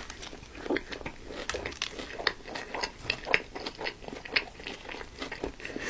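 A person biting into and chewing a Burger King Whopper with cheese, heard close up: an irregular run of small crisp crunches and wet clicks.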